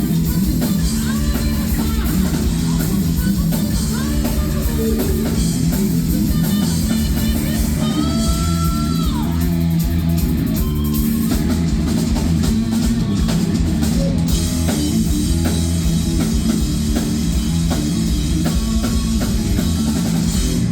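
Heavy metal band playing live and loud: drum kit and distorted electric guitar, with bent guitar notes in the middle. The music stops abruptly at the end.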